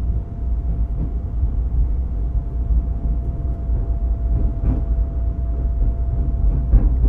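Interior of a JR East 205 series electric motor car with externally-fanned MT61 traction motors, running along the line: a steady low rumble of wheels on rail with a faint steady whine. Two short clatters come about two seconds apart in the second half.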